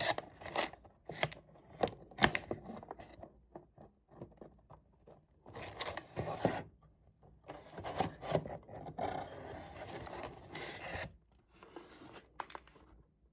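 Close-up handling of a keyboard's cardboard box and packaging: scraping, rubbing and rustling with scattered small taps and clicks, in uneven stretches with short pauses.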